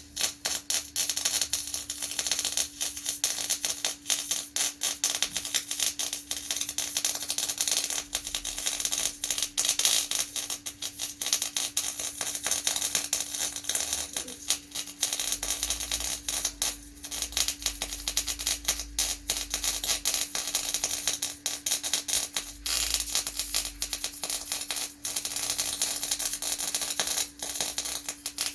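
Electric arc welding: a continuous, loud, irregular crackle and sizzle of the arc as weld metal is laid into a steel grab, with a steady low hum underneath.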